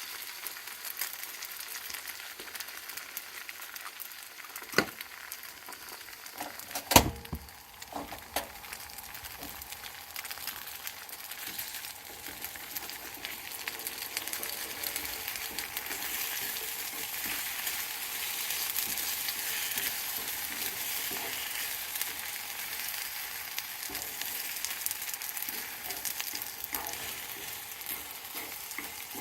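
Liver and garlic-chive stir-fry sizzling in a frying pan while being stirred, with two sharp knocks about five and seven seconds in. The sizzling grows a little louder in the second half.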